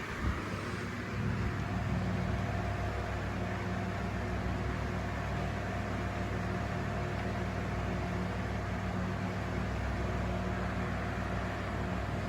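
Four ceiling fans running together on their highest setting: a steady motor hum with a few fixed low tones under an even rush of moving air.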